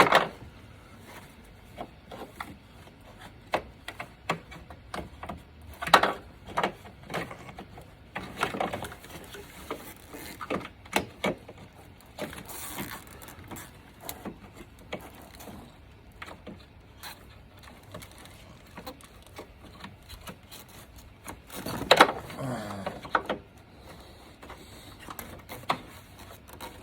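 Small hard parts being handled: scattered light clicks and taps, with a louder knock about six seconds in and a louder clatter around 22 seconds.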